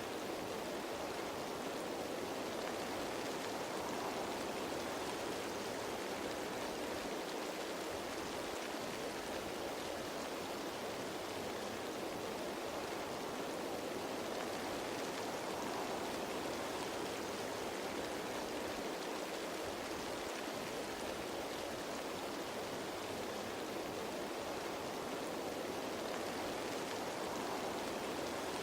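Steady rain falling on leaves, an even dense patter without distinct drops standing out.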